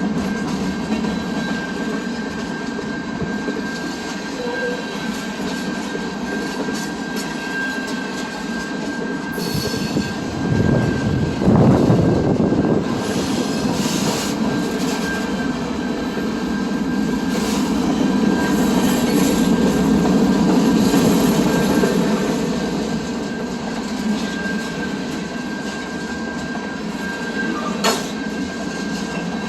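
Train rolling past on the rails with a steady high wheel squeal over a continuous rumble. The rumble grows louder about ten seconds in and swells again past the middle, and there is a sharp click near the end.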